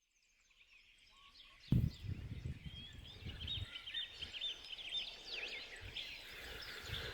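Small birds chirping and trilling in many short, quick notes. About two seconds in a thump starts an uneven low rumble on the microphone that goes on under the birdsong.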